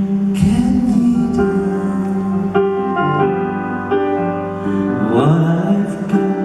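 Live music: piano playing the slow chords of a pop ballad, with notes held and changing every second or so, in the gap between sung lines.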